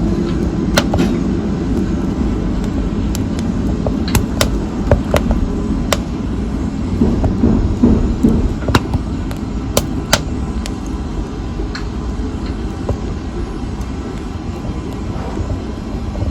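Wood fire in a fireplace burning with a steady low rumble, broken by sharp, irregular crackles and pops that grow sparser over the last few seconds.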